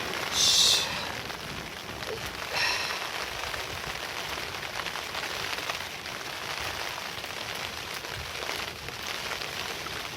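Steady rain falling, with two short louder hisses in the first three seconds.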